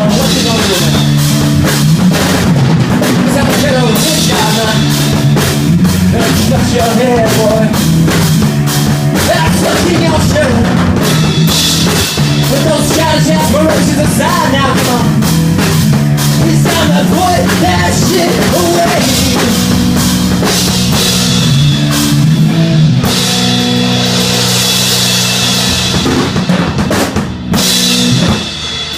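Rock band playing: a full drum kit with bass drum, snare and cymbals over a moving bass line and electric guitars. The band breaks off briefly near the end, hits one last chord and lets it ring out.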